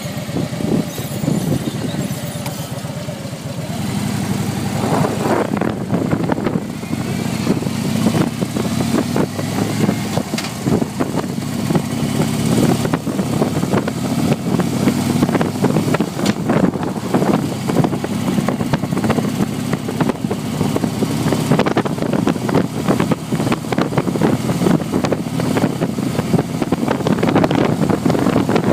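Motorcycle engine running steadily under way, its pitch shifting a few times with speed, with wind buffeting the microphone.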